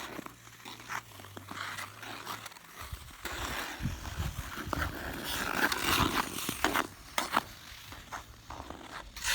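Ice skate blades scraping and hissing across smooth pond ice, with scattered sharp knocks and a strong, uneven low rumble from about three seconds in.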